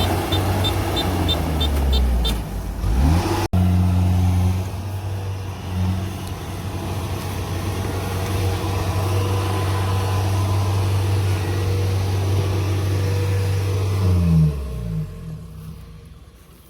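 Diesel engine of farm machinery running steadily, with a light fast ticking over it at first. Its pitch dips and comes back up about three seconds in, then falls and fades away near the end.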